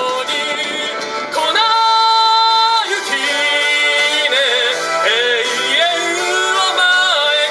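A singer performing a pop song live over a backing track, holding long notes with vibrato.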